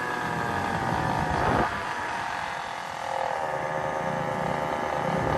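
Small gasoline engine running on the move, its pitch shifting as the throttle changes, with a quick rev surge about a second and a half in and another near the end.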